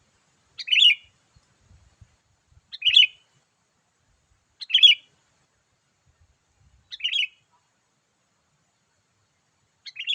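Sooty-headed bulbul (kutilang) calls used as a lure for wild bulbuls: a short, bright call repeated about every two seconds, with a last one cut off at the end.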